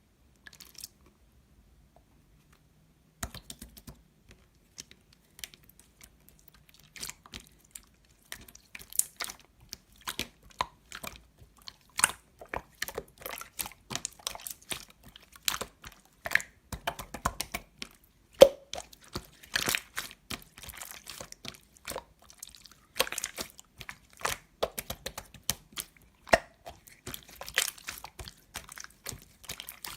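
Slime squeezed and pressed by hand, giving a quick, irregular run of crackling clicks and small pops that starts about three seconds in.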